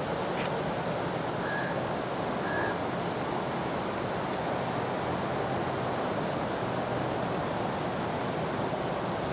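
Steady rushing of the flooded Chenab river's water, an even noise with no pauses. Two faint short high notes come about one and a half and two and a half seconds in.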